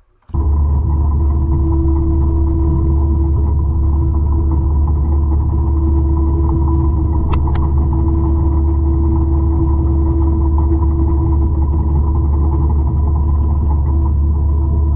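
Forestry mulcher running steadily at high power: a heavy diesel drone with a steady whine over it, cutting in abruptly at the start. There is a brief sharp tick about halfway through.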